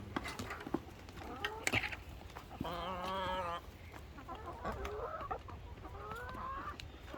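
Chickens clucking and calling, with one longer wavering call of about a second just before the middle and a rising call near the end.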